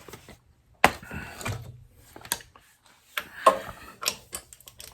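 Hand tools and metal engine parts knocking and clinking during valve-clearance work on a Yamaha Venture V4, a handful of separate sharp hits with quiet gaps between.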